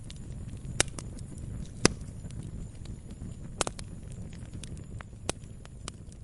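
Log fire burning: a low, steady rumble with sharp, irregular crackles and pops, four of them clearly louder than the rest.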